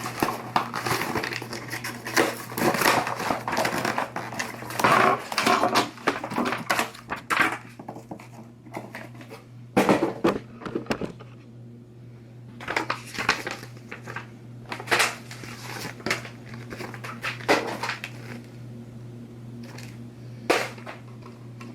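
Packaging being rummaged through and unpacked: crinkling and rustling, dense for the first several seconds, then scattered rustles and light knocks, over a steady low hum.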